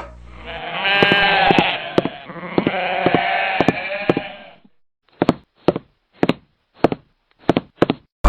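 A sheep bleating: one long, wavering bleat lasting about four seconds. It is followed by a run of short, sharp clicks a fraction of a second apart.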